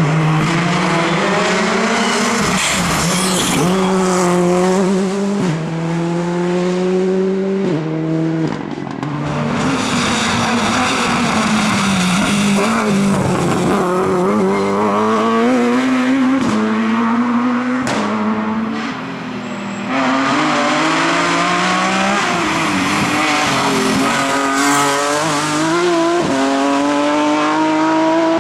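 Rally car engines driven hard at high revs. The pitch climbs and then drops sharply again and again with gear changes, and the sound cuts abruptly between several passes.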